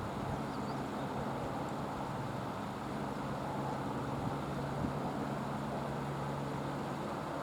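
Helicopter running steadily: a constant drone with a low hum, no rise or fall.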